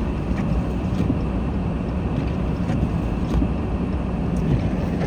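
Steady low rumble of a small car driving on a snowy road, heard from inside the cabin: engine and tyre noise, with a few faint ticks.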